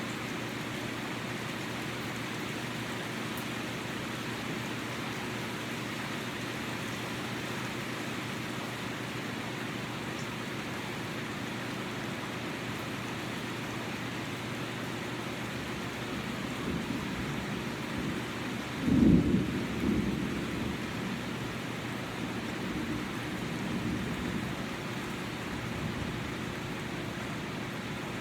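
Steady rain falling. About two-thirds of the way through, a roll of thunder swells, cracks loudest for a moment, then rumbles away over several seconds.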